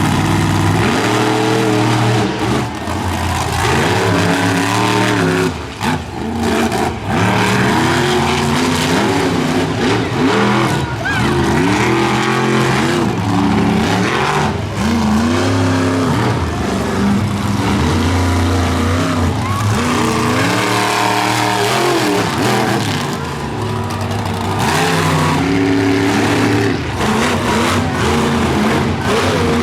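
Monster truck engines running at full throttle during a race, revving up and down over and over as the trucks accelerate, back off and land jumps.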